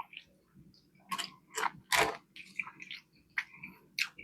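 Close-miked chewing of a beer-battered fish sandwich: irregular crisp, wet crackles and mouth smacks, the loudest about two seconds in.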